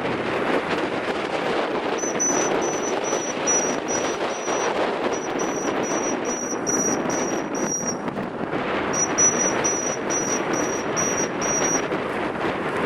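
Strong wind rushing steadily. Over it, a short high-pitched chirp repeats about two to three times a second, in two runs with a pause of about a second between them.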